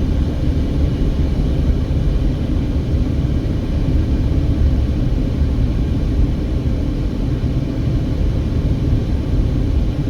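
Steady low rumble of a car driving, from road and engine noise, with no distinct events.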